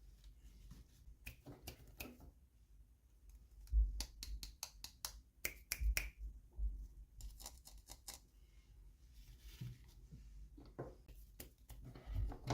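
Hands opening and handling plastic toy packaging: a run of sharp clicks and crinkly rustles, with a few dull thumps against the table.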